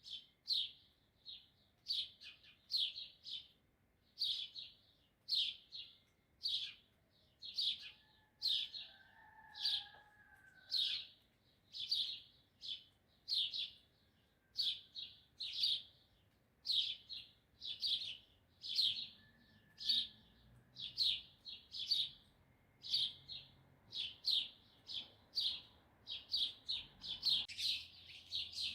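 A small bird chirping over and over, short sharp chirps about one or two a second, often in pairs. About eight seconds in, a faint, longer, lower call lasting a few seconds, a distant rooster crowing.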